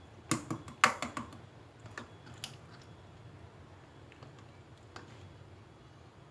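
A quick cluster of sharp clicks and taps in the first second or so, then a few scattered single clicks, like small objects being handled or keys being pressed.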